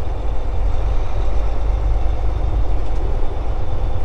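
Semi truck's diesel engine running steadily at low speed, a deep even rumble with a faint steady hum above it.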